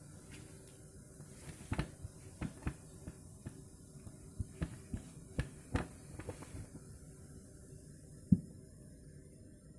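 A cat knocking about in a bucket: a run of light, irregular taps and knocks, then one more a little after eight seconds in.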